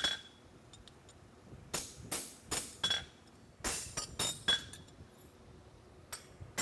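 Hammer blows on a steel punch clearing out the nail holes of a forged horseshoe on the anvil: sharp metallic clinks with a short high ring, coming in two quick runs of about four strikes, with single strikes at the start and near the end.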